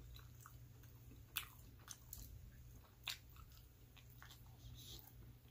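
Faint chewing and biting of pepperoni pizza, with a few soft crunches from the crust, the clearest about a second and a half in and again about three seconds in.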